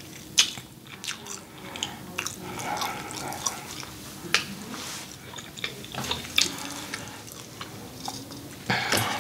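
A person chewing and biting cooked broccoli, with wet mouth clicks throughout and a louder bite near the end.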